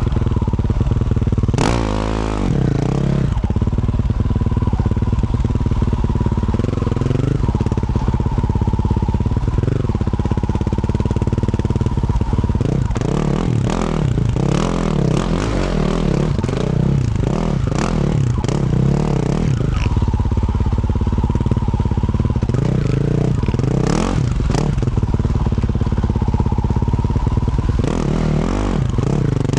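Yamaha YZ450F single-cylinder four-stroke dirt bike with a Yoshimura RS-12 exhaust being ridden, its engine revving up and falling back again and again as the throttle opens and shuts. There are scattered sharp knocks and clatter.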